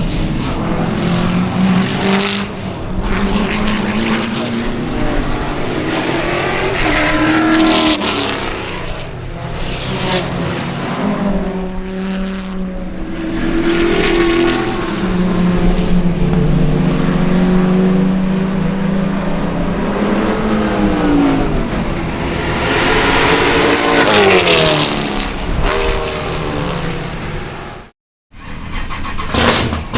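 Race car's 8.1-litre Pontiac 496 big-block V8 at full throttle on track, its pitch climbing and falling again and again through gear changes and pass-bys. The sound cuts out abruptly for a moment shortly before the end.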